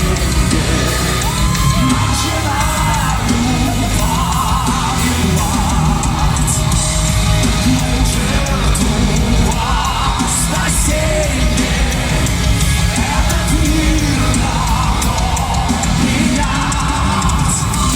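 Power metal band playing, with a strong sung vocal line over a loud, dense backing.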